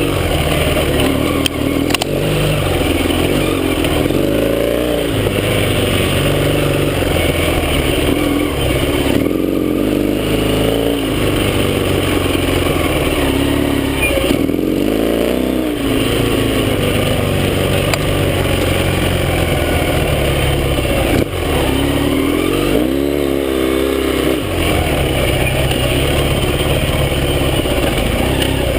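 Yamaha XS650 air-cooled parallel-twin motorcycle engine under way on a ride, its note rising and falling repeatedly as the rider accelerates and backs off, with a few brief drops in the engine sound.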